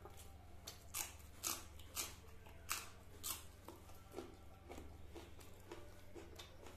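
A person chewing crunchy food close to the microphone: a run of sharp crunches about every half second, then softer chewing sounds.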